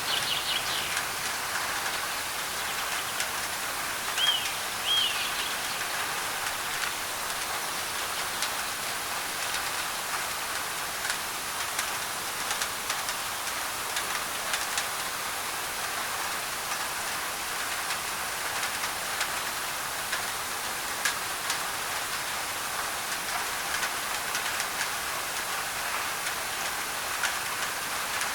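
Tropical rain on a thin tin roof: a steady hiss with single drops ticking sharply, layered with white noise. A bird chirps twice about four seconds in.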